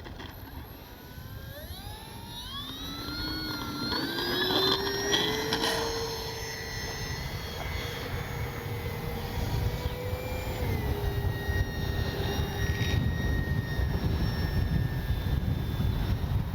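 Brushless electric motor and propeller of an FMS Cessna 182 RC plane on a 4S battery, whining up in pitch over a few seconds as the throttle is opened, then holding steady, and easing down a little about ten seconds in. Wind rumbles on the microphone underneath.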